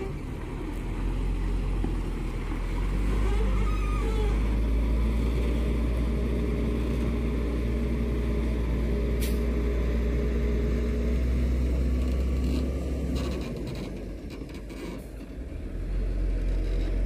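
Heavy truck's diesel engine running hard with a deep, steady drone. It eases off about fourteen seconds in and picks up again near the end.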